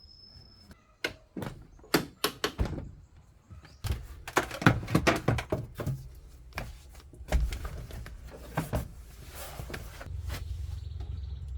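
A series of irregular sharp knocks and clunks, some in quick clusters, followed by a steady low hum near the end.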